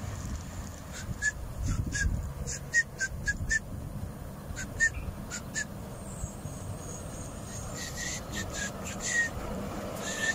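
A bird calling in three quick bouts of short, sharp chirps, over a low rumble of traffic on the highway.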